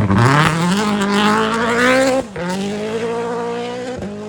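Rally car's engine accelerating hard, its note rising. About two seconds in it drops sharply at a gear change and then climbs again, with another shift near the end as the car pulls away.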